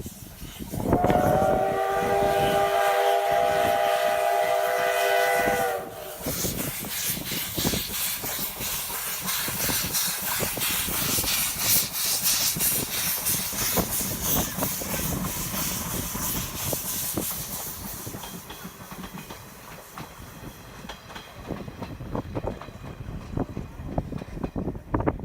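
C11 steam tank locomotive blowing a long whistle of several steady tones for about five seconds, which cuts off sharply. The loud hiss and rapid clatter of the passing locomotive and its train follow, fading away after a while.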